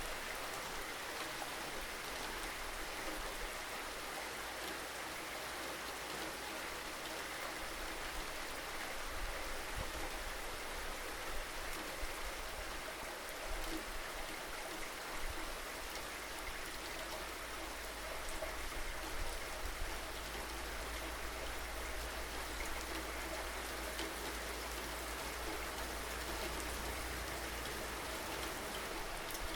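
Rain falling steadily, a continuous hiss with scattered louder drop hits.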